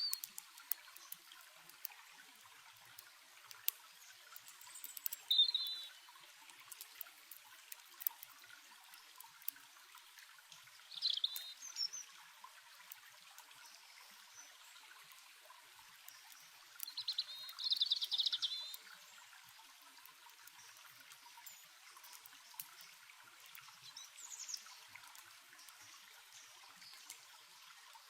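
A stream running steadily, with a bird calling four times in short chirping phrases, the longest and loudest about two-thirds of the way in. Scattered faint sharp ticks, mostly in the first third, fit a crackling campfire.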